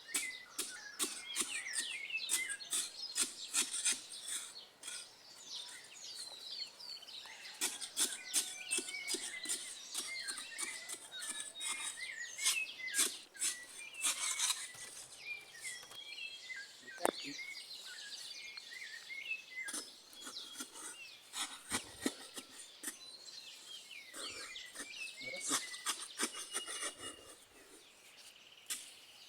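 Many small birds chirping and calling throughout, with frequent short scrapes and knocks from digging a Dakota fire hole in the soil.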